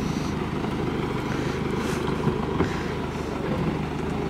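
Mercedes-Benz saloon driving past, its engine running steadily.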